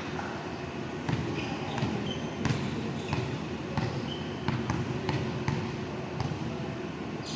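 Volleyball play in a gym: the ball slapping off hands and thudding on the court floor, a sharp hit every half second to second, with a few short high squeaks and a steady murmur of people in the hall.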